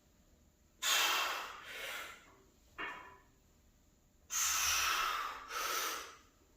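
A man breathing hard from the strain of a heavy close-grip bench press set: four forceful, noisy breaths in and out, two of them long and two short, with pauses between.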